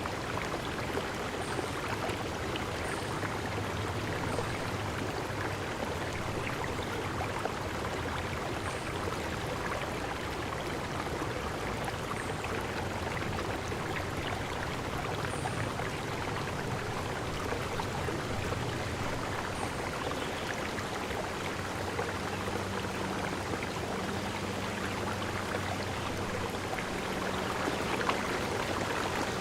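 Steady rush of running water, with faint short high-pitched chirps every few seconds.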